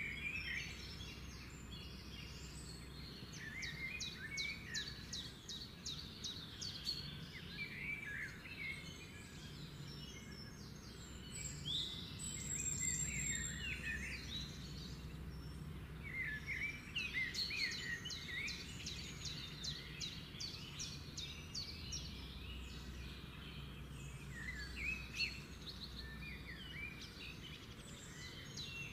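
Small birds chirping and trilling on and off, many short calls and quick rattling trills overlapping, over a steady low hum.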